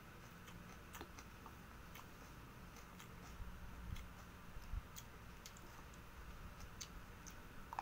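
Faint mouth noises of someone chewing food: scattered soft clicks and smacks at uneven intervals, with a couple of low bumps about halfway through.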